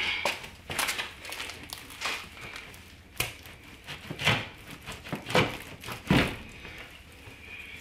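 Irregular knocks, clunks and rustles of hands working on a clothes dryer and its vent hose while it is pulled out from the wall, about ten separate knocks.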